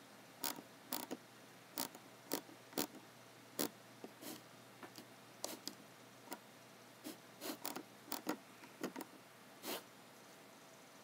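Computer keyboard keys and mouse buttons clicking in an irregular pattern, about one or two clicks a second with short pauses between runs, over a faint steady room hum.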